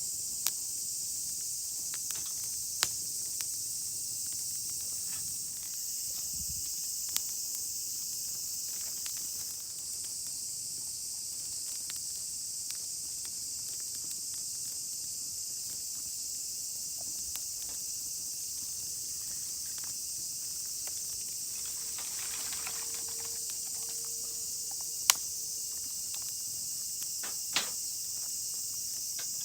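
A steady, high insect chorus, with a few sharp clicks scattered through it, the loudest about 25 seconds in.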